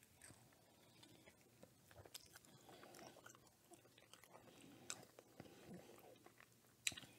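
Faint chewing of a bite of fried chicken sandwich on a brioche bun, with soft mouth clicks and smacks scattered through.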